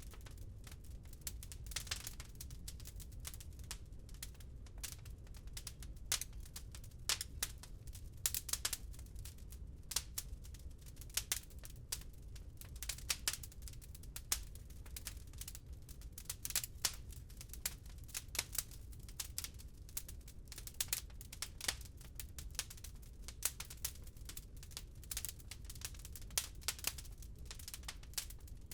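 Wood fire crackling in a fireplace: a steady run of irregular sharp pops and snaps over a constant low rumble.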